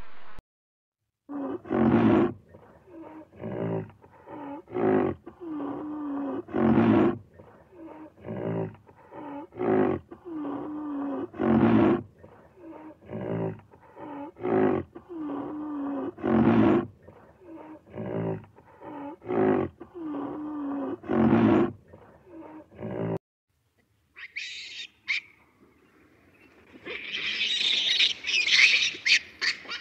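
Animal calls: a long series of short, harsh calls repeated about once a second, then after a brief pause a run of higher chirping calls near the end.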